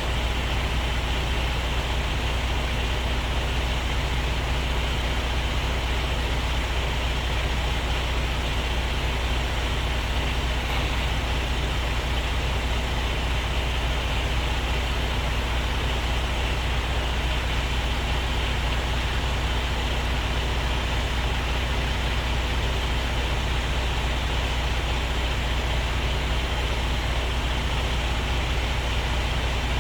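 Diesel engine of a semi-truck running steadily, a constant low rumble with no change in speed.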